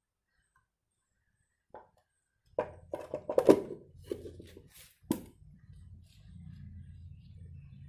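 A run of sharp clicks and knocks, small parts being handled by hand, the loudest about halfway through, over a low steady hum that starts with them.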